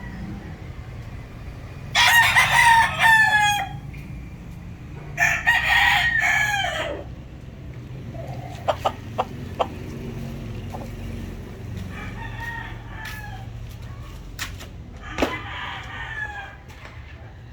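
Gamecock roosters crowing: two loud crows a few seconds apart, then two fainter crows later, with a few sharp clicks in between.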